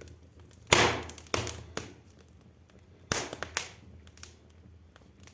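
Damp pine firewood burning and crackling in a fireplace, with sharp loud pops about a second in and again about three seconds in, and smaller snaps between; the popping comes from the pine.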